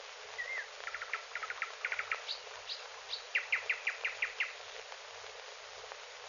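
Songbird birdsong: a couple of short slurred whistles, then quick runs of rapid notes, a few high thin notes, and a fast series of about eight evenly spaced descending notes, over the steady hiss of an old film soundtrack.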